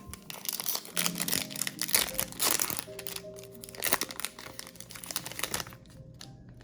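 Foil Pokémon trading-card booster pack wrapper crinkling as it is torn open and handled, stopping near the end, over background music.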